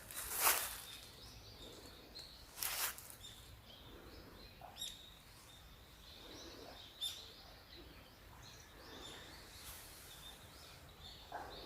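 Small birds chirping with short, repeated calls over a steady low outdoor hiss. Two brief noisy swishes, the loudest sounds, come about half a second and three seconds in.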